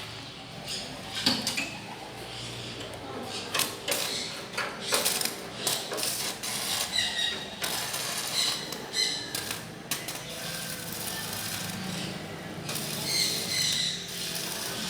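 Irregular clicks and knocks of hand tools being worked, with a few short high chirps in between.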